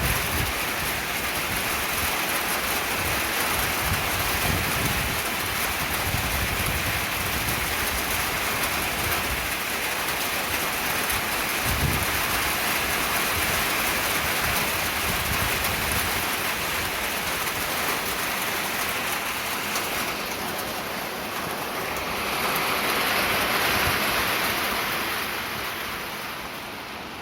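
Heavy rain falling, a steady hiss that softens near the end.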